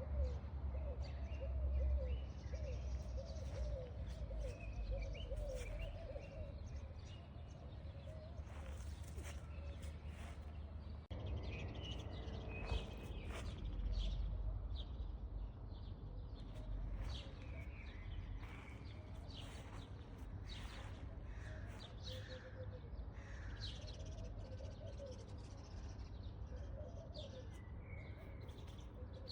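Birds chirping, many short calls scattered throughout, over a steady low background rumble.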